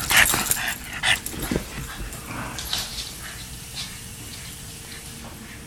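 A dog making a few short, loud vocal sounds in the first second and a half, then only fainter scattered noises.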